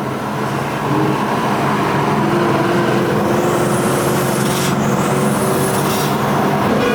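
Car engine and road noise at a steady cruise, a low even drone with no revving.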